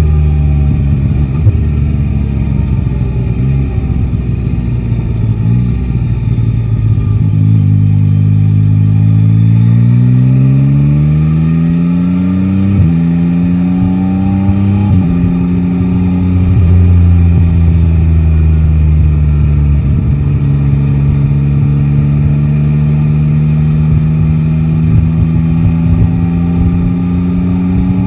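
Yamaha Tracer 9 GT's inline-three engine ridden in traffic. It runs at low revs at first, then accelerates with rising pitch, with two upshifts in quick succession about halfway through, then cruises at steady revs that creep up near the end.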